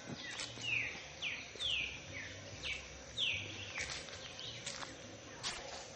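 A songbird singing a run of short clear notes, each sliding down in pitch, about two a second, over a steady outdoor hiss.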